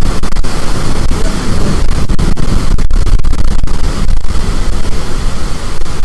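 Strong storm wind buffeting the microphone: loud, constant rumbling noise that swells and falls, heaviest in the low end, with a few brief dropouts.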